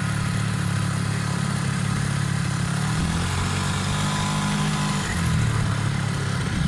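Small two-stroke grass-cutter engine driving a boat's longtail propeller, running steadily, its pitch shifting a little about three seconds in and again near five seconds.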